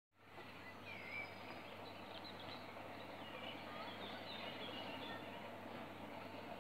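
Small birds chirping and singing in short gliding notes, busiest in the first few seconds, over a faint steady outdoor background with a low hum.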